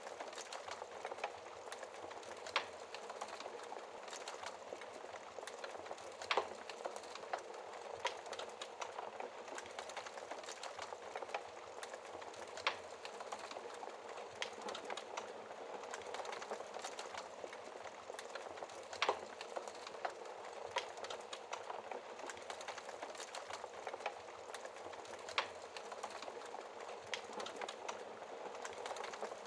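Wood fire crackling steadily, with five sharper, louder pops spaced roughly six seconds apart.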